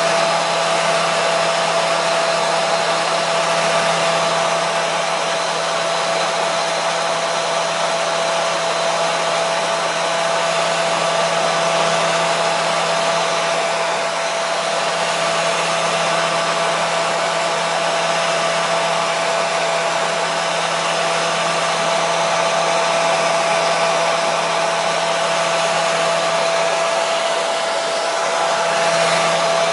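Hair dryer running steadily: an even rush of blown air with a constant motor whine and a low hum underneath, never changing.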